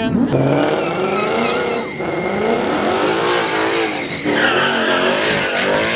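Ford Mustang doing donuts: engine revving up and down with tyres squealing and skidding, the squeal strongest from about four seconds in.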